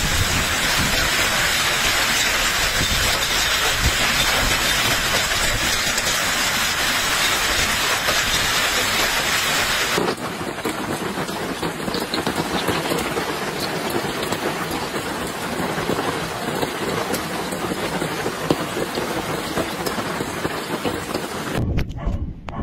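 Heavy storm rain pelting down in a dense, steady hiss. The sound changes abruptly about ten seconds in and again near the end, as one recording cuts to another.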